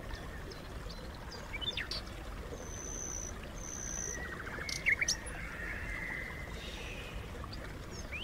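Wild birds chirping: a few short, sharp chirps scattered through, with a thin high whistled note held twice in a row about three seconds in, over a steady outdoor background hiss.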